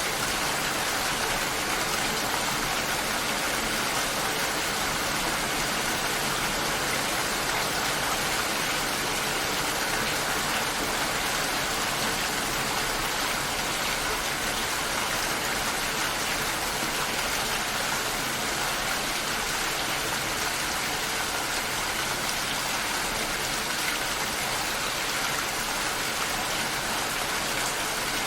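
Steady rain shower falling and pattering on surfaces, an even hiss without breaks.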